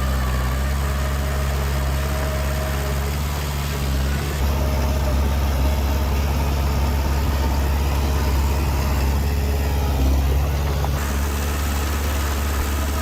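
Bulldozer's diesel engine running steadily with a low hum, getting a little louder about four seconds in.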